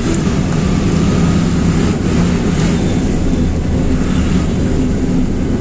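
Truck engine running steadily, a continuous low drone with an even noise over it.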